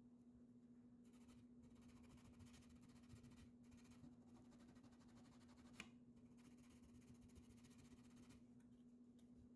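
Near silence: room tone with a faint steady hum and hiss, and one faint click about six seconds in.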